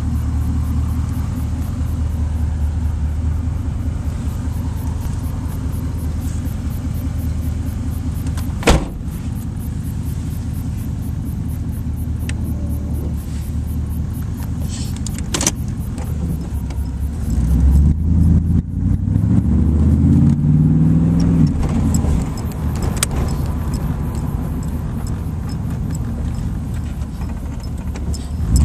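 1983 Pontiac Trans Am's V8 idling steadily, heard from inside the car, with a sharp click about a third of the way in and another around halfway. About two-thirds of the way in the engine rises in a few short surges of throttle, then settles back to idle.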